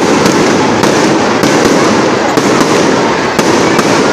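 Aerial fireworks bursting in a loud, dense, unbroken barrage of bangs and crackling, with sharper cracks standing out at irregular intervals.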